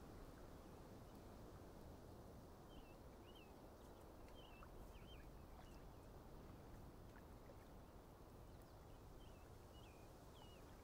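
Near silence: faint outdoor ambience with a few soft, distant bird chirps in two small clusters, one a few seconds in and one near the end.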